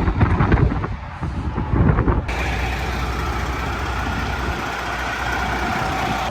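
Wind buffeting the microphone, then, after an abrupt change about two seconds in, a semi truck's diesel engine idling with a steady hum and a faint whine.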